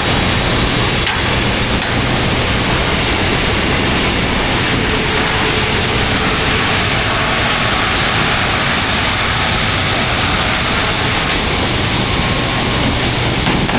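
Wide belt calibration sander running as it sands plywood: a loud, steady rushing noise over a low hum.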